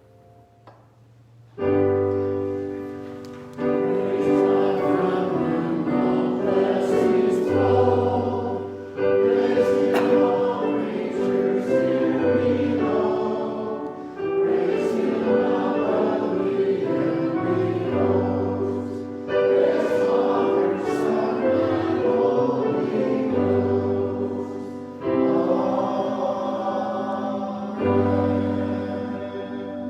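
Choir singing a hymn in sustained chords with keyboard accompaniment. It starts about two seconds in and moves in phrases of a few seconds each.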